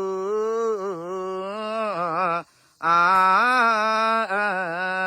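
A solo male voice chanting a Buddhist blessing verse, drawn out in long held notes with wavering melodic turns. It breaks off briefly for a breath about two and a half seconds in, then continues on a sustained note.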